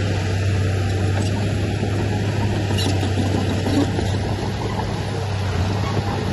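Heavy-machinery diesel engine running steadily with a low, even drone and a few faint clicks.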